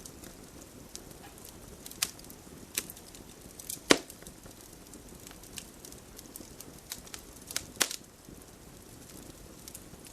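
Wood fire crackling in a fireplace: irregular snaps and pops over a soft low hiss, the loudest pop about four seconds in and another sharp one near eight seconds.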